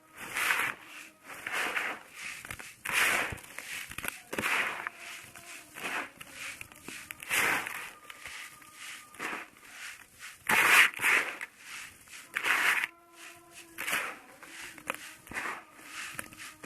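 Dry moulded sand bowl being smashed and crumbling into grainy sand: a series of gritty crunches about one a second, the loudest a little past the middle.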